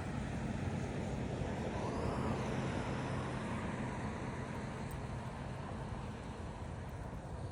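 Steady road traffic noise, with a vehicle passing that swells and fades about two seconds in.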